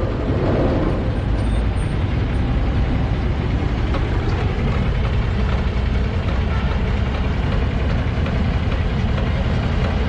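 Steady rumble of road vehicles and engines, continuous without a break.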